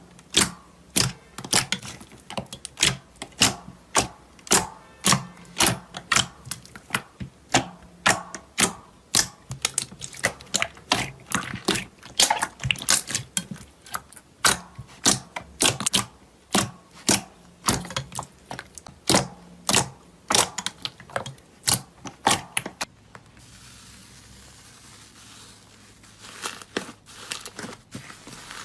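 A fast run of sharp, crisp clicks and pops, about two to three a second. About 23 seconds in they turn sparse and quieter.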